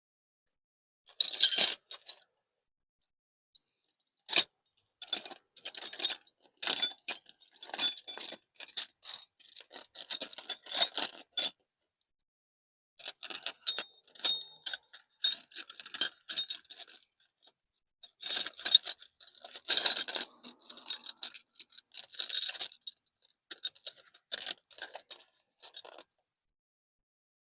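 Metal sockets and hand tools clinking and rattling in irregular short bursts as they are rummaged through, with a brief pause about midway.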